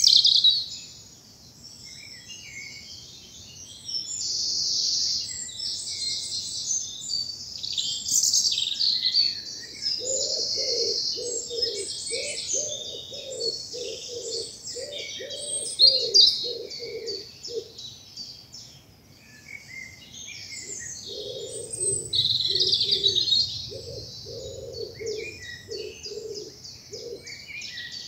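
Spring woodland dawn chorus: many songbirds singing overlapping high, busy songs and trills. Through the second half a low cooing call repeats in two runs of about a dozen even notes.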